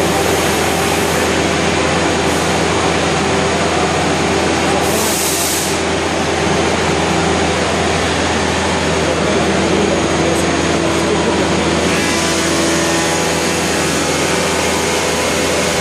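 Five-axis CNC router running steadily, its spindle and machining noise holding even, with a brief hiss of air about five seconds in.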